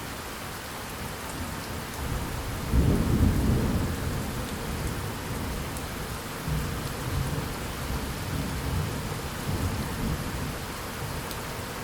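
Steady rain falling, with a roll of thunder that swells about two seconds in, peaks around three seconds and rumbles on more softly for several seconds.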